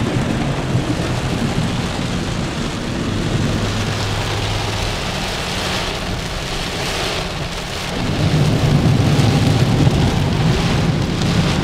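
Heavy rain falling steadily, with a low rumble underneath that grows louder about eight seconds in.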